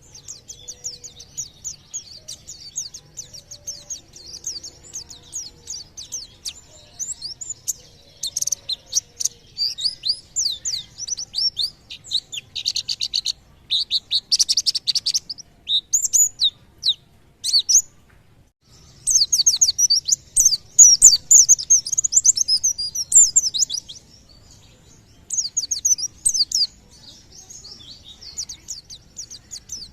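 White-eye (pleci) singing in rapid runs of high, quick chirping notes, the fast 'nembak' burst style, broken by short pauses. The loudest run comes about two-thirds of the way through.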